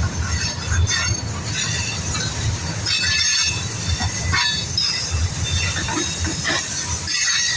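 Freight train cars rolling past, steel wheels squealing in short high-pitched bursts that come and go over a steady low rumble.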